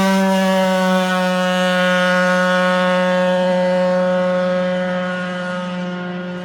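A scooter's 70cc Stage 6 MK2 racing two-stroke engine held at high, steady revs, giving a loud high-pitched drone that fades over the last second or two.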